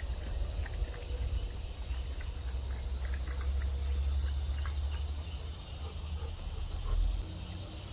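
Outdoor ambience: a steady chorus of insects with scattered short chirps, under a low rumble on the microphone that swells midway and bumps once near the end.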